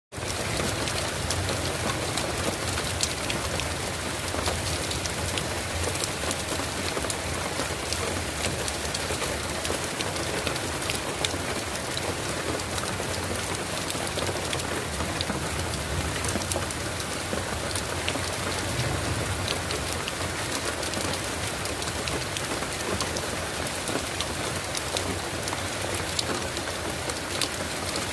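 Heavy rain falling steadily, many drops pattering on surfaces.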